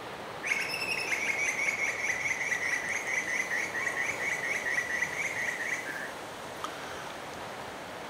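A bird giving one long, rapid, even trill of about five notes a second that lasts some five seconds and then stops.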